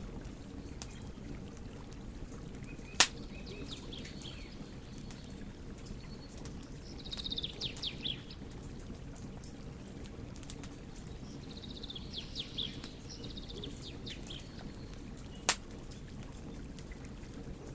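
Wood fire burning with a steady low rush of flame and scattered small crackles, broken by two sharp loud pops, about three seconds in and near the end. Twice in the middle comes a brief high twittering.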